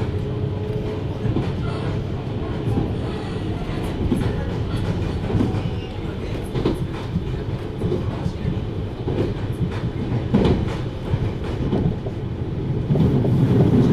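JR Hokkaido 733 series electric multiple unit running at speed: a steady low rumble with irregular clicks of the wheels over rail joints. A faint steady tone fades out at the start, and the running noise grows louder near the end.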